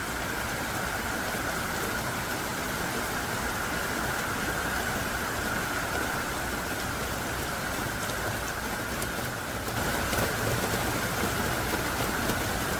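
Heavy, pelting downpour: a steady hiss of dense rain, growing a little louder about ten seconds in.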